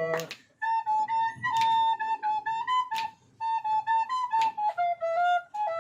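Background music: a solo flute-like wind instrument plays a melody in short phrases with brief pauses.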